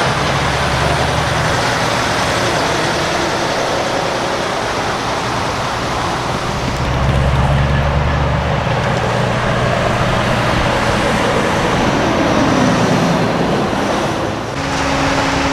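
Heavy semi trucks driving past with diesel engine drone and tyre and road noise; the engine sound is strongest about seven to nine seconds in. A brief dip comes near the end, after which a steady hum carries on.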